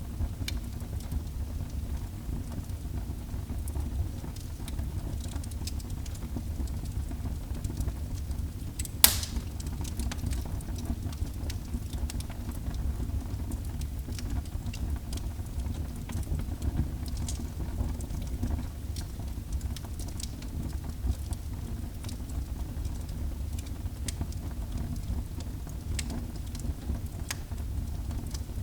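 Wood fire burning in a fireplace: a steady low rumble of the flames with scattered small crackles, and one loud pop about nine seconds in.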